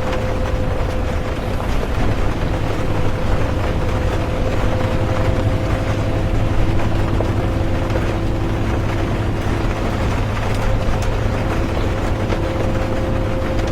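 Interior of a bus on the move: a steady low engine rumble with a thin, steady whine that fades out and returns, over even road noise, with rain mixed in.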